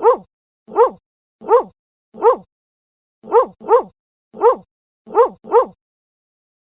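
A dog barking: a run of about nine short, alike barks, some single and some in quick pairs. They stop about a second before the end.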